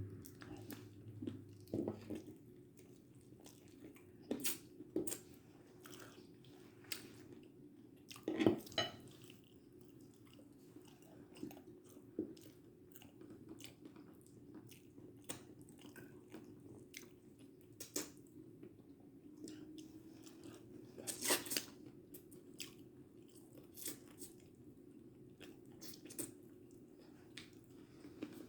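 A person chewing and crunching food close to the microphone, with irregular crisp bites, two louder crunches near a third of the way in and about three quarters through, over a faint steady hum.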